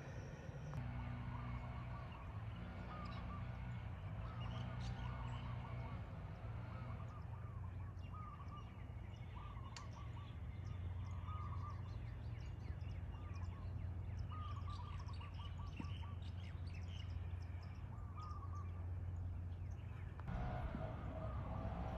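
Birds calling in short, repeated phrases about every second or two, over a steady low hum.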